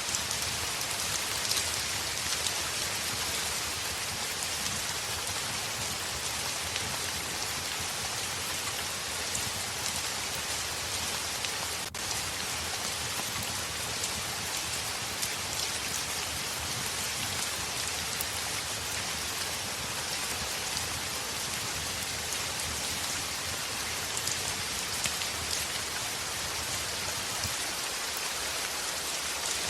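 Heavy rain hitting a window: a steady, dense hiss of water with fine patters of individual drops.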